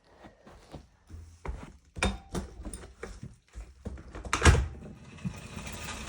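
Bicycle on a Wahoo Kickr Core indoor trainer: a string of irregular knocks and clunks, the loudest about four and a half seconds in, then a steady whir that starts building near the end as the trainer begins to spin.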